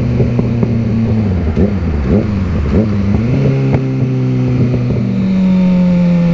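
Sport motorcycle engine running at low speed in slow traffic, its pitch wavering up and down with small throttle changes about two to three seconds in, then holding a steady note that slowly falls near the end.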